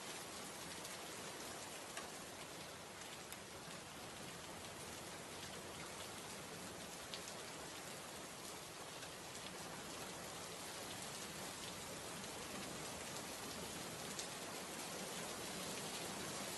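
Heavy rain falling steadily and splashing on a wet surface, a dense even hiss with scattered sharper drop ticks, growing slightly louder toward the end.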